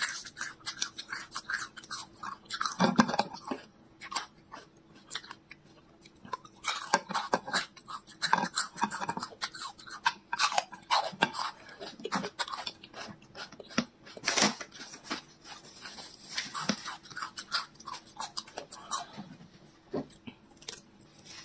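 Close-miked crunching and chewing of raw garlic cloves, in many short crackly bites, loudest about three seconds in and again near the middle.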